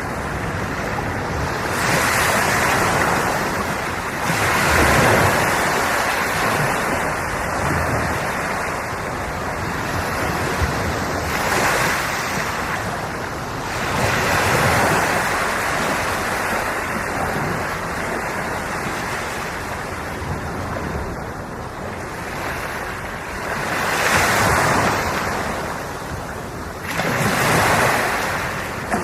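Ocean waves washing in, a steady wash of surf that swells and fades every few seconds, with several louder surges.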